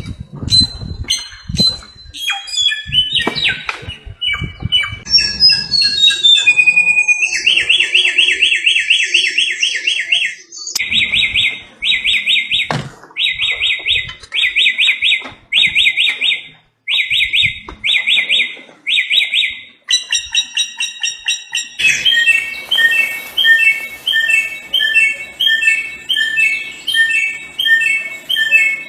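Samyong, an Indonesian endemic songbird, singing a loud, varied song of clear whistles and fast trills. In the middle it repeats one trilled phrase about eight times, and near the end it switches to a quick run of repeated notes.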